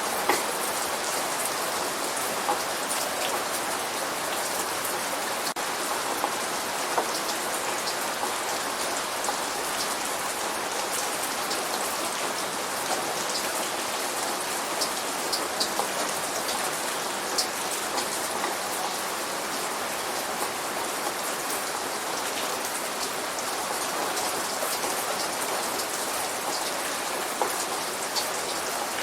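Light rain falling steadily, a constant patter with scattered individual drops ticking sharply on a surface.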